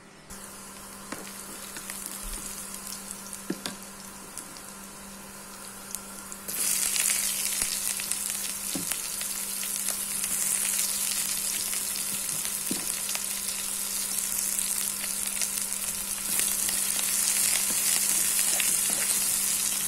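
Chopped red onion and garlic sizzling in hot oil in a wok; the sizzle gets suddenly louder about six seconds in and stays strong.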